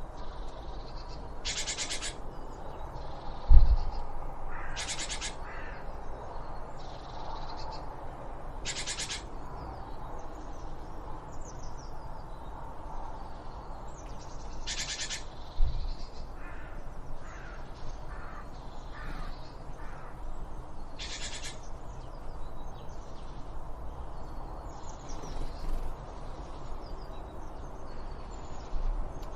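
Birds calling outdoors: a harsh, rasping call about half a second long repeats every four to six seconds over softer chirps and a steady low background hiss. Two dull low thumps, one a few seconds in and one about halfway.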